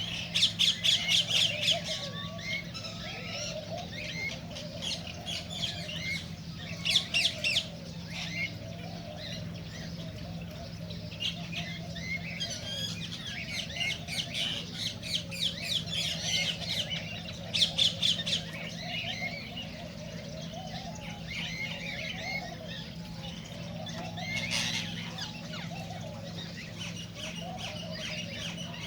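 A group of cockatiels chattering and squawking, with loud bursts of squawks every several seconds over a steady low hum.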